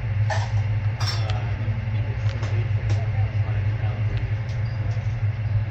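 Steady low hum of a train at close range, with faint voices and a few light clinks over it.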